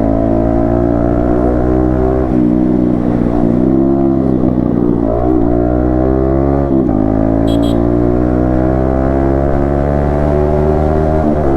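Yamaha MT-15 V2's single-cylinder engine running under way, the revs climbing and then dropping at a gear change about two seconds in. The revs rise and fall a few times through the middle, then climb steadily and drop at another shift near the end.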